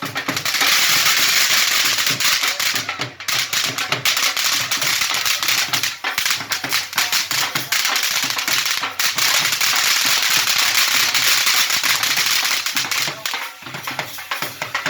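A firework crackling: a rapid, dense stream of small pops that keeps up for about twelve seconds and thins out near the end.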